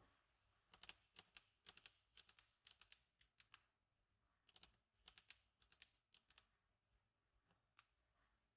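Faint, crisp clicks and crackles of vintage paper and a journal being handled, coming in quick irregular clusters with a short lull about four seconds in.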